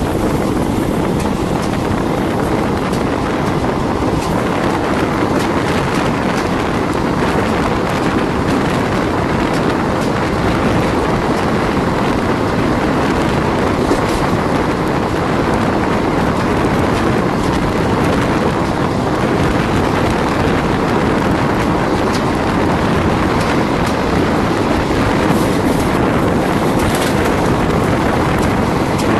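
Passenger train running at speed, heard from an open coach doorway: a steady rumble of wheels on the rails mixed with wind rushing over the microphone.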